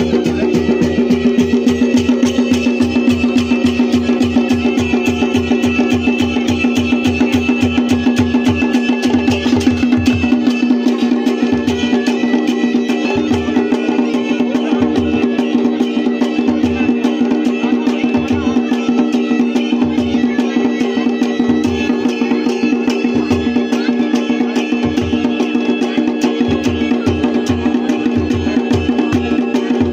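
Kumaoni Chhaliya band music: a wind instrument holds a steady drone with a melody over it, while drums keep a fast even beat that thins out to sparser strokes about nine seconds in.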